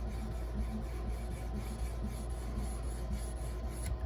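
A 154CM steel knife blade being stroked along a 650-grit diamond stone on an Edge Pro sharpener: a repeated rasping about twice a second, over a low steady hum. The strokes stop near the end.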